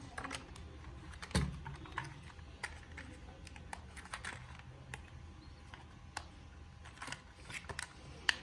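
Irregular light clicks and taps of hands handling a plastic remote-control car and its parts, with a heavier knock about a second and a half in.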